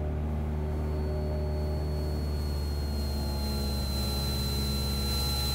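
Cessna 172SP's Lycoming IO-360 engine and propeller droning steadily in the cabin in flight, with a thin high whine and an air hiss that grows slowly louder toward the end.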